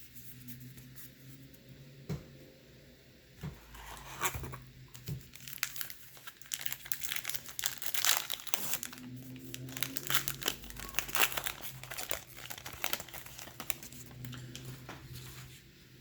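A baseball card pack wrapper being torn open and crinkled, with dense crackling that is heaviest in the middle.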